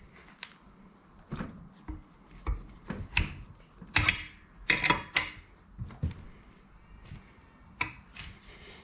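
Irregular clicks, knocks and short scrapes of metal parts and tools being handled on a workbench, with a cluster of louder clatter about four to five seconds in.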